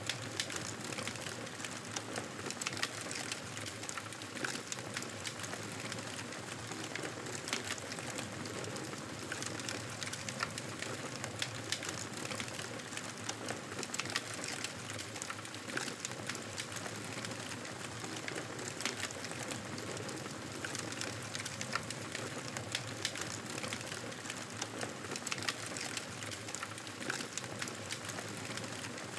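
Campfire burning: a steady hiss with frequent small, sharp crackles and pops scattered throughout.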